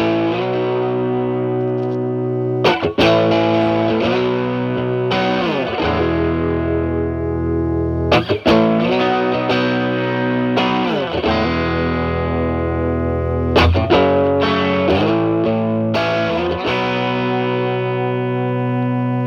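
Stratocaster electric guitar played through a Timmy overdrive pedal into a Marshall Valvestate amp's clean channel, giving a lightly overdriven tone. Chords are strummed every few seconds and left to ring out.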